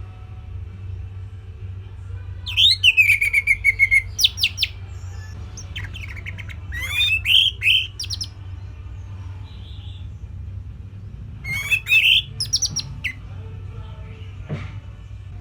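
Orange-headed thrush singing three short phrases a few seconds apart, each a run of quick whistled notes that slide and trill, over a steady low hum.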